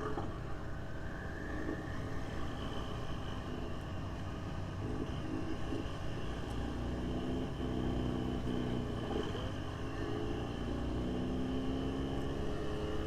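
Car engines running steadily, with several held engine tones that shift a little in pitch and no sharp pops or bangs.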